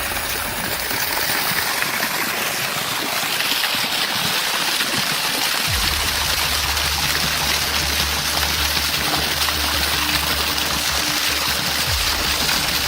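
Water gushing steadily out of a tree trunk, a continuous rush of running water. A low steady hum joins about six seconds in.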